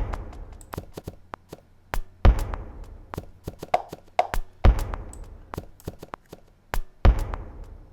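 A looped musique concrète rhythm built from sampled household found sounds plays back through an effect plugin. Sharp taps and clicks run over a deep thud that comes round about every two and a half seconds, and each thud trails off in a long smear.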